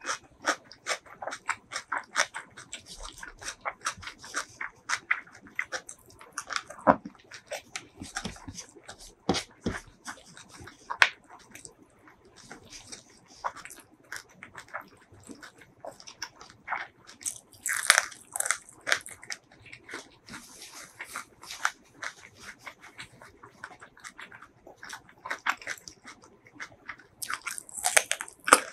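Close-miked eating: wet chewing and mouth clicks throughout, with sharper crunchy bites, the loudest near the end as a raw cucumber spear is bitten.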